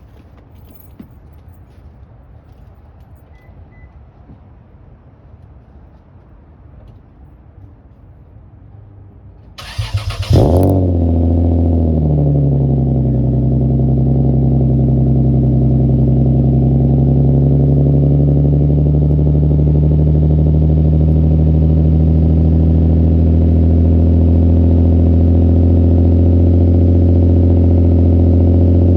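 Straight-piped Lexus GS300 cold start: about ten seconds in the starter cranks for about a second, the engine catches with a loud flare, then the revs ease down slightly into a loud, steady cold idle.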